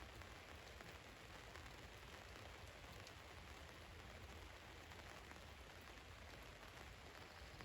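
Faint, steady rain falling on a van, an even hiss with scattered tiny drop ticks.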